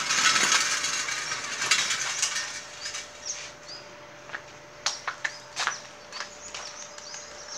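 Small birds chirping in short high calls, over a rustling hiss in the first two seconds and a few sharp clicks a little past the middle.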